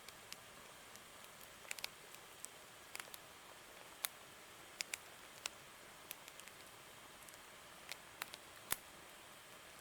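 Campfire crackling: burning wood giving off scattered, irregular sharp pops, about one or two a second, over a faint steady hiss, with one louder pop near the end.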